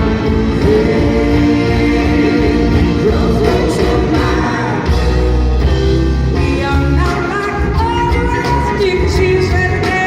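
Rock band playing live with a singer, loud and steady.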